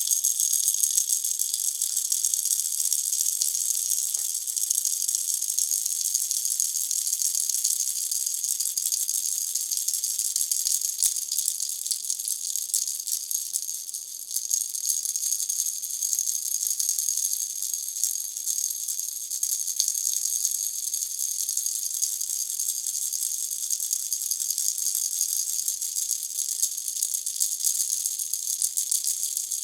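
Baby's toy rattle shaken without pause, a dense, steady, high-pitched rattling, briefly a little softer about fourteen seconds in.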